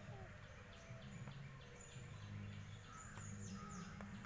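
Faint outdoor background: a low steady hum with a few faint bird calls in the second half.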